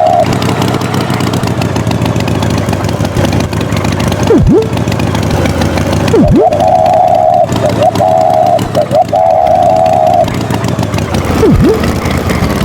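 Cartoon tractor engine sound effect running steadily, with quick swooping pitch drops three times and a higher warbling tone in the middle.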